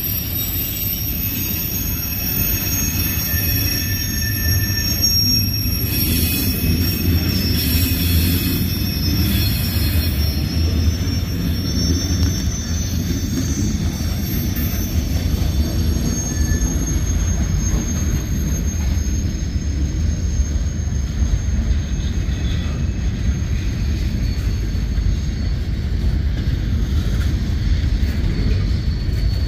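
CSX manifest freight train's cars rolling past: a steady low rumble of steel wheels on rail, with thin high-pitched wheel squeal over it, strongest in the first dozen seconds or so and fainter later.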